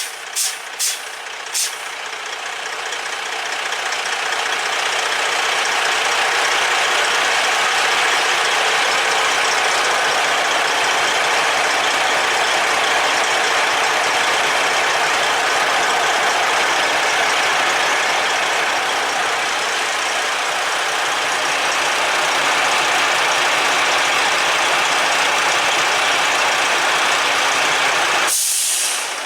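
Freightliner Columbia truck's engine running while its air system builds pressure, with a strong steady rush of air. Near the end a short sharp hiss, and the rush cuts off: typical of the new air dryer purging when the compressor unloads. A few quick clicks at the very start.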